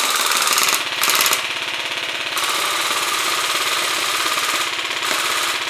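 Airsoft electric rifle firing one long, unbroken full-auto burst, a fast rapid-fire rattle.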